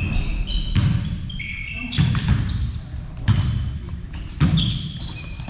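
Several birds chirping and singing in short high notes, with a dull thump about every second underneath.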